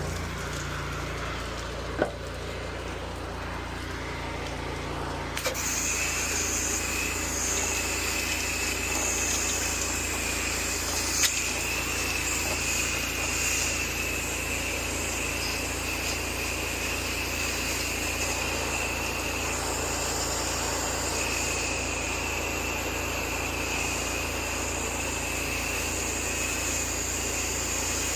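Pressure washer running steadily, its engine-driven pump humming low, with the water jet hissing from about five seconds in. Two short sharp clicks stand out, one early and one near the middle.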